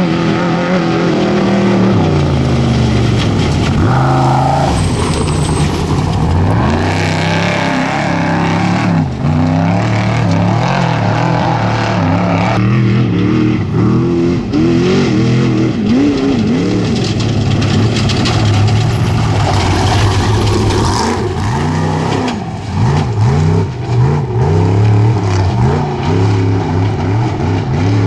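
Off-road desert race vehicles' engines revving hard, rising and falling in pitch again and again as they accelerate, lift and pass.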